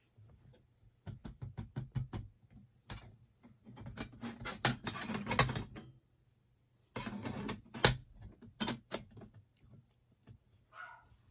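A run of sharp clicks and taps from things being handled, with a denser clattering rattle in the middle.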